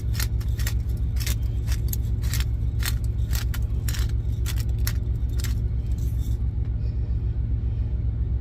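Truck engine idling with a steady low drone, while a pepper container is shaken over food in sharp rattling strokes, about two or three a second, stopping about six seconds in.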